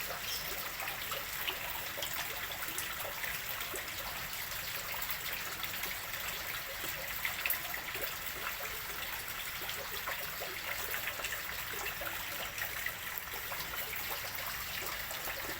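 Water pouring steadily into a fish pond as it is refilled after cleaning, a continuous trickling splash.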